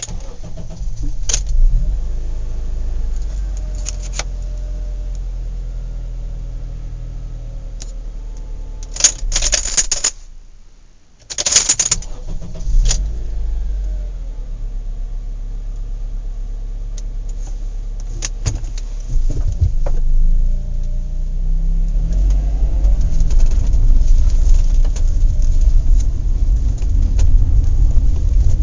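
A motor vehicle's engine runs with a steady low rumble amid metallic clanks and clicks. It cuts out briefly about ten seconds in and starts up again with a loud burst, then runs louder toward the end.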